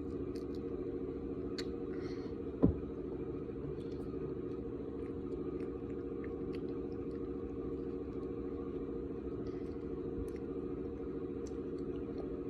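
A steady low hum with several tones, like a running motor or a car cabin. Faint scattered clicks and crackles sit on top of it, and one sharp thump comes about two and a half seconds in.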